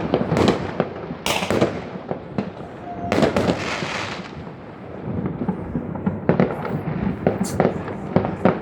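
Fireworks going off: a rapid run of bangs and crackles, with heavier bursts about a second and three seconds in and several more near the end.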